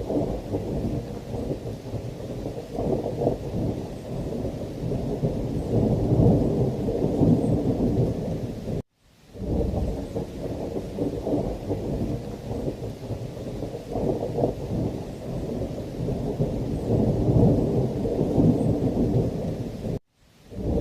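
Thunderstorm: rolling thunder rumbling continuously under heavy rain, the sound sitting low and swelling and fading. It cuts out to silence briefly twice, about nine seconds in and near the end.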